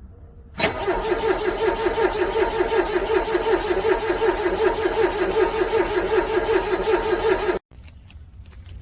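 Car engine being cranked over by its starter motor in a cold-start attempt, turning over with an even rhythmic pulsing without catching. It begins about half a second in and cuts off suddenly after about seven seconds.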